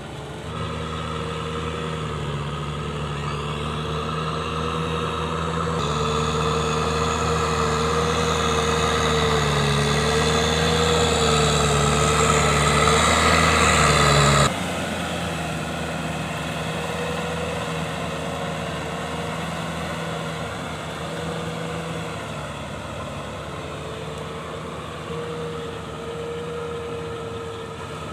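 Kubota M6040SU tractor's diesel engine running steadily, growing louder over the first half, then dropping suddenly to a lower level about halfway through.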